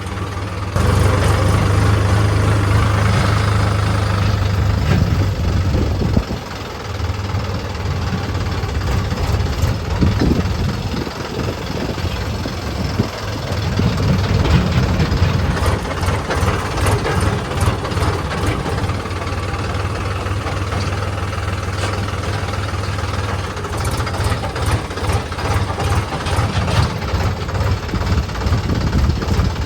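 Heavy diesel engine running steadily with a low, knocking hum, with bursts of sharp clattering about halfway through and again near the end.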